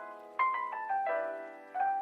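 Background music of piano notes, played slowly, each note ringing out and fading before the next.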